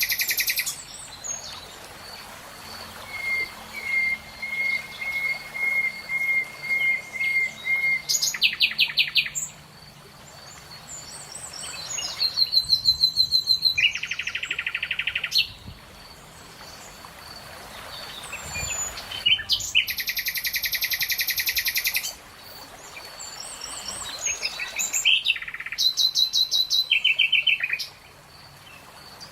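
Wild birds singing: loud, fast trilled phrases repeat every few seconds, and a run of short, evenly spaced whistled notes comes early on. A faint, steady pulsing high note runs underneath.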